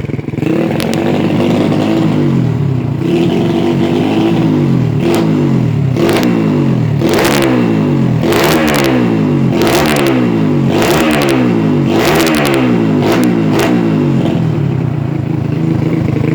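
Single-cylinder four-stroke engine of a bored-up 130cc Yamaha Vega R New, fitted with a Norifumi aftermarket exhaust, being revved: repeated throttle blips, about one a second in the middle, each rising in pitch and falling back, with steadier running near the start and end.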